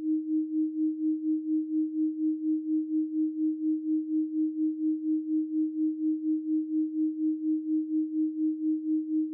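A steady 312 Hz pure sine tone, pulsing evenly in loudness about three to four times a second.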